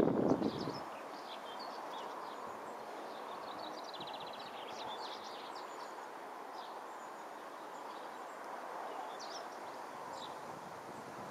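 Small birds chirping and trilling at intervals over a steady background rumble. A loud rush of noise fades out within the first second.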